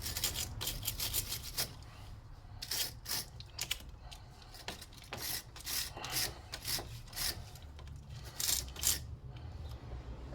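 Hand-scrubbing car battery terminals to clean off white corrosion: short rasping scrape strokes in quick runs, with brief pauses between.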